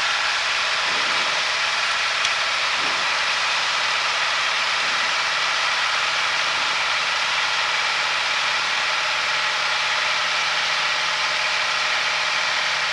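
Steady engine and airflow noise inside a small airplane's cockpit in flight, unchanging throughout, with most of its energy in a high hiss.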